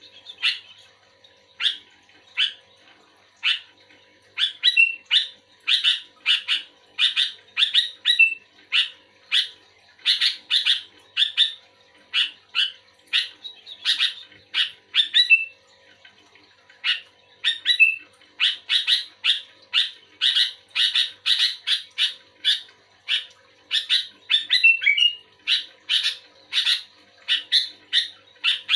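Sooty-headed bulbul (kutilang) singing actively: quick runs of short, bright chirping notes, one after another, with a brief lull about halfway through.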